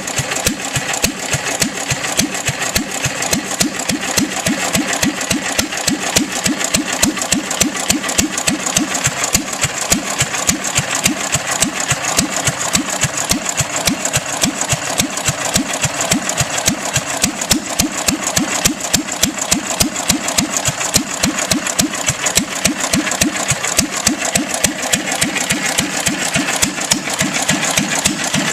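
International Harvester Model M 1 1/2 HP throttle-governed single-cylinder gas engine running steadily, firing evenly on every cycle rather than hitting and missing. It is running on fuel poured straight into the carburettor, as its fuel pump plunger is missing.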